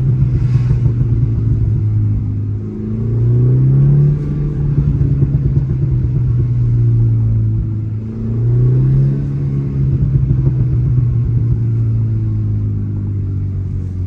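A 2018 BMW 330i's turbocharged B48 four-cylinder, on a Stage 1 Bootmod3 tune, is blipped in first gear. The revs rise twice, and each time they fall off on the lift there is a run of overrun burbles that sound more like bangs or knocks than crackles. The revs are already falling with burbles at the start.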